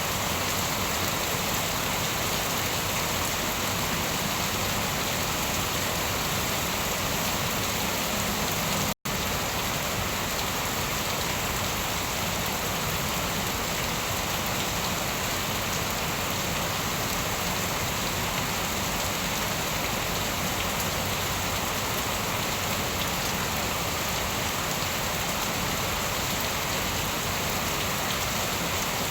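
Steady, dense rainfall hissing and pattering on surfaces, with no thunder. The sound cuts out completely for an instant about nine seconds in, then resumes unchanged.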